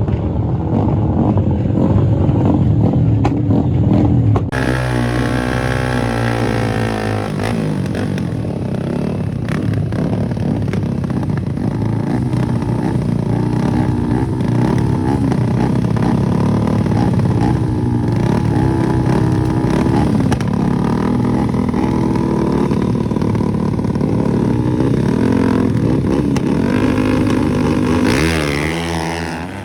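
Motorcycle engines at full throttle in drag races, the pitch climbing and dropping back again and again as the riders shift up through the gears. The sound changes abruptly about four seconds in.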